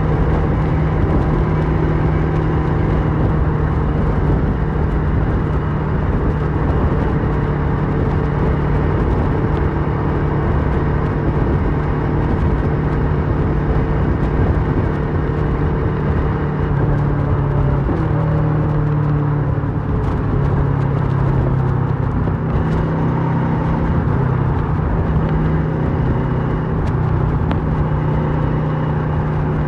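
2008 Kawasaki Versys 650's parallel-twin engine through a MIVV slip-on exhaust, running steadily while riding, with the engine note shifting briefly a little past the middle.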